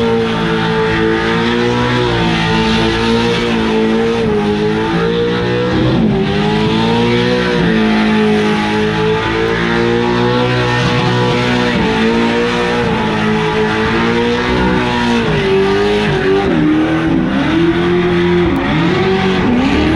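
700-horsepower Pro 2 short-course race truck engine held at high revs during a burnout, rear tires spinning on the pavement. The revs sag and climb back several times, with quicker rises and falls near the end.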